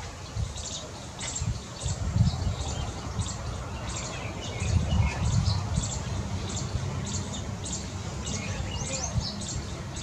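Birds chirping: many short, high calls, several a second, scattered throughout, over a steady low rumble.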